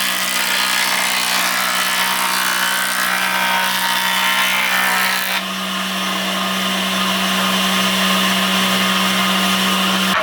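Electric power tool running steadily on wood, a constant motor hum under a dense rasping hiss. The tone changes slightly about five seconds in.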